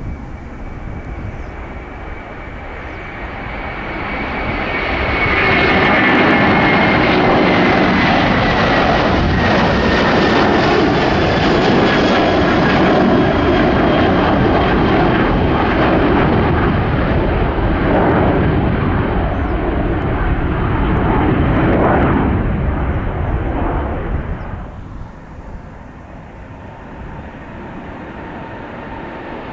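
Twin-engine Airbus A330-300 jet airliner taking off, its engines at takeoff power. The noise swells over the first few seconds, stays loud with a slowly falling whine, and dies down about 25 seconds in.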